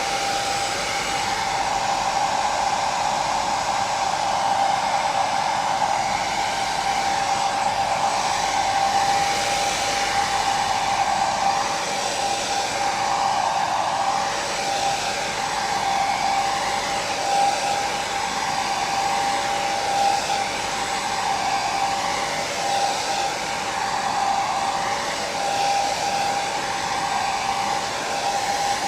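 Hair dryer running continuously as sleep white noise: a steady rushing whoosh with a constant motor whine, slowly wavering in level.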